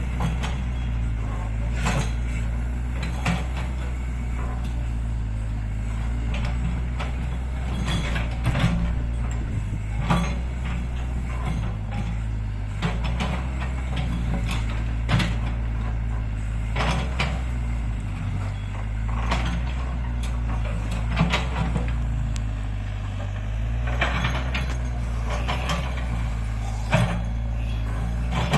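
Excavator's diesel engine running steadily, with irregular metallic knocks and clatters from the bucket and stones being loaded into a dump truck.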